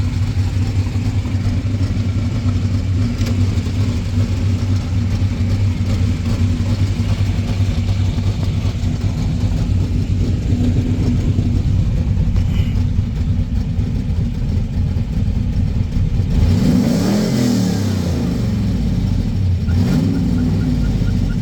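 LS6 V8 in a 1985 Monte Carlo SS idling steadily on its first run since December, then revved twice near the end, the pitch climbing and dropping back each time.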